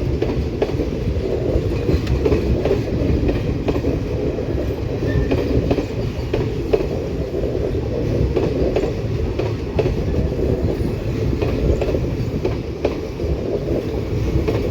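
A train rolling past: a steady, loud rumble of wheels on the rails, with faint irregular clicks from the rail joints.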